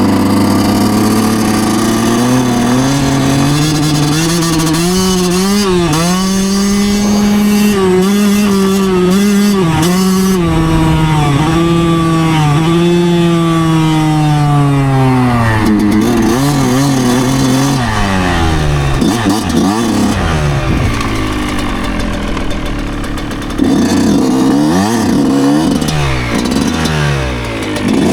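2009 Yamaha YZ125's two-stroke single-cylinder engine running, its pitch holding high with brief dips for about the first half. The revs then fall away and rise and drop repeatedly through the second half.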